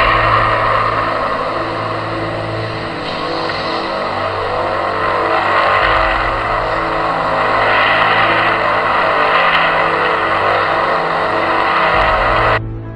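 A loud, steady rushing roar that swells a little now and then, with a low steady drone under it; it cuts off abruptly near the end. It is of the kind passed around as mysterious 'strange noises' heard in the sky.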